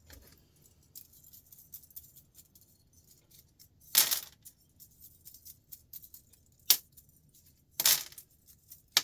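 Small metal terminal connectors from an electric cooker hob clinking as they are handled and dropped one by one. The sharp clicks come about four, six and three-quarters, and eight seconds in, with faint ticks between. The connectors are being checked with a magnet, which shows they are not brass.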